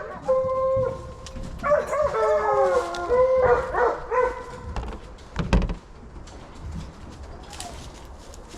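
A hunting dog gives several long, wavering howls over the first four seconds. A single low thump comes about five and a half seconds in.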